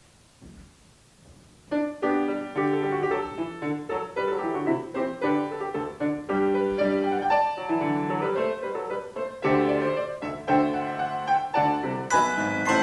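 A bell trio's performance of a hymn tune starting about two seconds in, a piano-like keyboard part carrying the melody in struck notes, with bright ringing bell strikes joining near the end.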